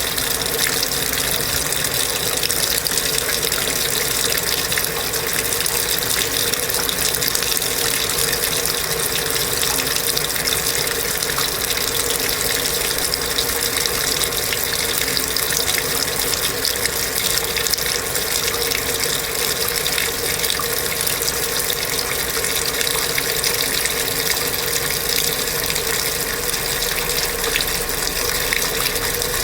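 Kenmore belt-drive portable washing machine running, with water rushing steadily through it and a steady hum under the water noise.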